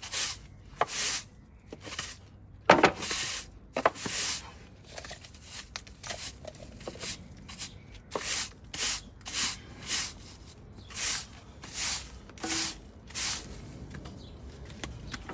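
Broom sweeping: a run of short brushing strokes, irregular at first with a louder stroke about three seconds in, then steadier at about two strokes a second.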